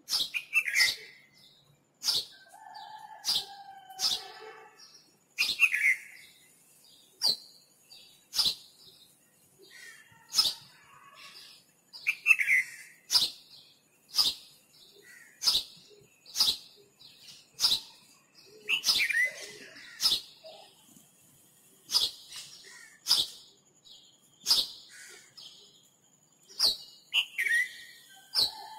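Birds calling: one repeats a sharp, short chirp about once a second, while others add descending and whistled calls in between.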